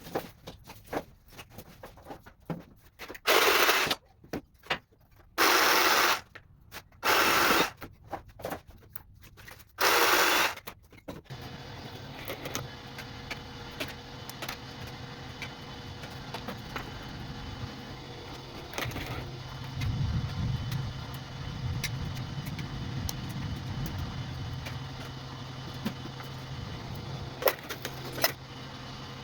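Four short, loud bursts of noise in the first ten seconds, then a small electric motor, likely the wire stripper's, starts and runs steadily with a low hum and scattered light ticks and rattles.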